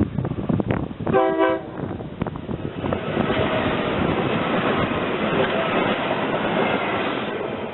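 SEPTA Silverliner electric commuter train sounds a short horn blast about a second in. Its running noise of wheels on rail then builds and holds steady as it passes.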